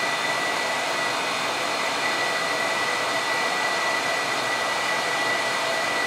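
Steady whooshing machine noise, like a fan or blower, with a high steady whine held over it; it cuts off suddenly at the end.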